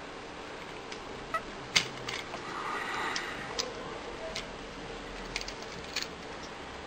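Small plastic clicks and taps from a Transformers Animated Prowl action figure being handled and transformed, its arm joints being moved up. Scattered single sharp clicks, the loudest about two seconds in, over a low hiss.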